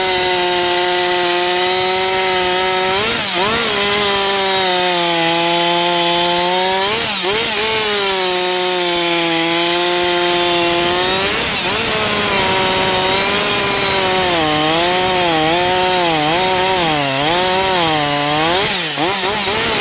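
Husqvarna 562XP two-stroke chainsaw running at high revs while cutting hemlock. Its pitch dips and recovers several times as the chain loads up in the wood, and near the end it wavers quickly up and down.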